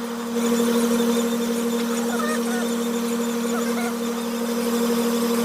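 Steady machine hum made of two unchanging tones, one low and one about an octave above it, with faint short chirp-like sounds over it.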